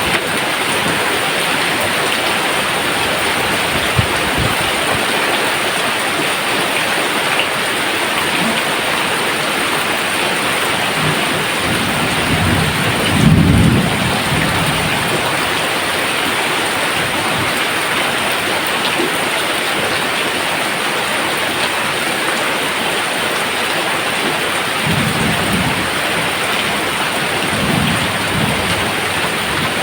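Steady heavy rain pouring down, with a low rumble of thunder about halfway through, which is the loudest moment, and fainter rumbles near the end.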